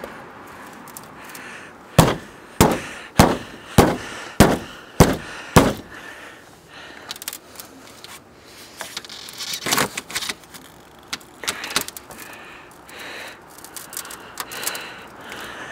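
Woodpecker pecking at wood: seven sharp, evenly spaced knocks about half a second apart, followed by fainter scattered taps and rustles.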